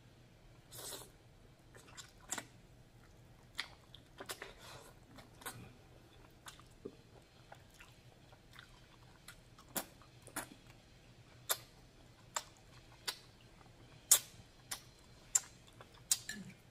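Close-miked wet chewing and lip smacks of a person eating noodles in black bean sauce: irregular sharp smacks about once a second, with a longer, softer sound about a second in.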